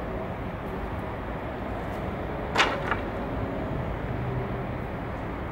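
Steady low hum of a car idling, heard from inside the cabin, with one sharp knock about two and a half seconds in.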